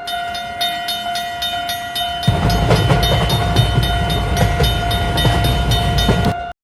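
Train sound effect: a steady whistle-like tone held throughout over rapid, evenly spaced clacking, joined about two seconds in by a heavy low rumble. It cuts off suddenly near the end.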